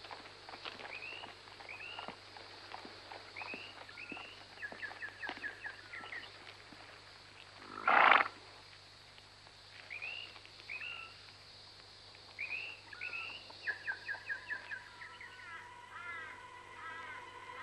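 Birds calling again and again in the bush: short rising-and-falling whistles and quick runs of chirps, with one loud harsh call about eight seconds in. A steady high hiss sits under them, and sustained music fades in near the end.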